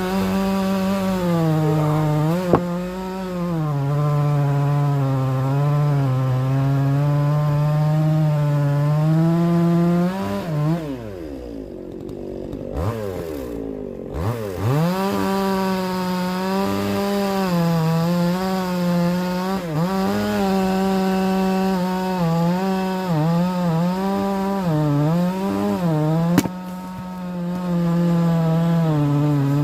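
A chainsaw engine running at high revs and cutting wood, its pitch sagging under load and recovering. Around halfway through it drops right down and then revs back up.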